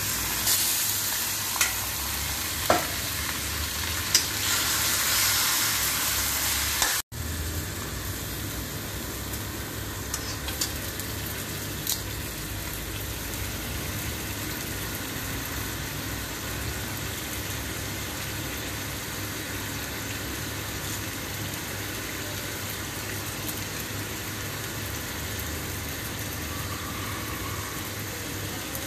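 Chicken pieces sizzling as they fry in a hot black wok, with a few sharp metal clinks in the first seconds as they are scraped in from a steel bowl. After a split-second break about seven seconds in, steady sizzling goes on, with occasional knocks of the spatula stirring the chicken.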